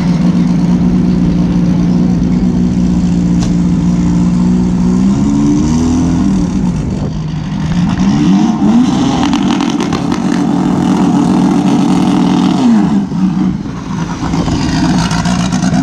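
Turbocharged air-cooled VW Beetle's flat-four engine held at steady high revs, with brief dips and climbs in pitch twice and revs rising again near the end.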